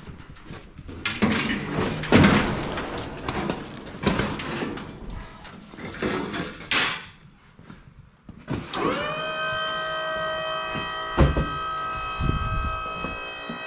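Irregular knocks and clatter of equipment being handled, then about nine seconds in a motor-driven machine spins up to a steady high whine that keeps running, with a couple of thuds under it.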